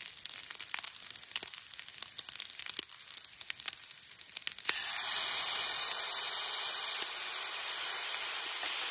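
Rice and egg crackling and sizzling in a hot nonstick frying pan. About five seconds in, a dark sauce added from a wooden spoon hits the pan and sets off a louder, steady hiss.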